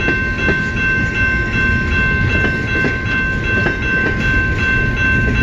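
Freight train cars rolling past, with a rumble and irregular clicks of wheels over the rail joints, and a steady high-pitched ringing tone held over it throughout.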